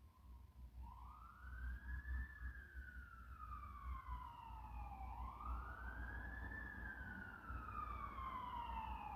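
Fire truck siren in a slow wail, faint and slowly growing louder: each cycle rises quickly, then falls slowly, about every four seconds.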